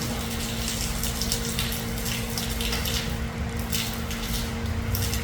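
Water running and splashing from a water tank's spout, with a steady low hum underneath.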